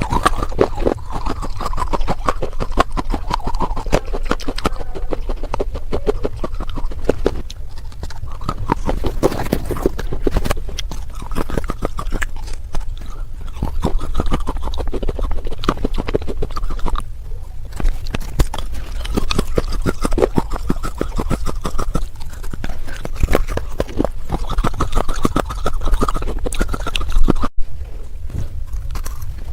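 Person biting and chewing pieces of baked red clay pot, a dense run of rapid, close crunches.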